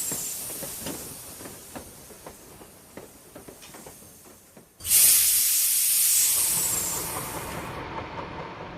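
Steam locomotive letting off steam: a hiss that dies away, faint clicks and knocks, then a sudden loud hiss about five seconds in that slowly fades.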